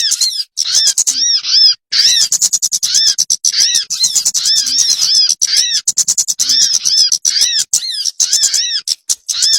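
Bird lure (pikat) call: a rapid series of short, arched chirping notes, about three a second, repeated with brief breaks, used to draw wild birds in for catching.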